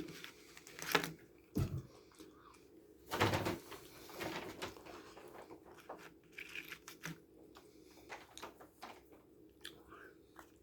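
Plastic candy packaging being handled: a few short rustles and knocks, the loudest about three seconds in, then softer scattered clicks.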